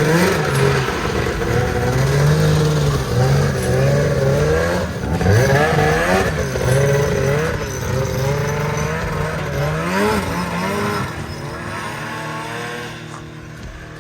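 Arctic Cat ZL550 snowmobile's two-stroke engine running hard, revving up and down again and again as the sled is ridden, then fading away from about eleven seconds in. It has just been brought back from a no-spark, no-start condition and is running strongly.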